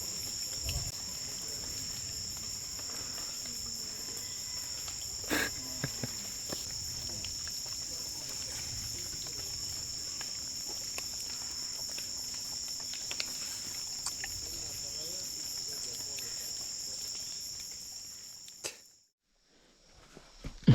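Insects of the rainforest keep up a steady, high-pitched drone. There is a single sharp knock about five seconds in, and the drone cuts off suddenly near the end.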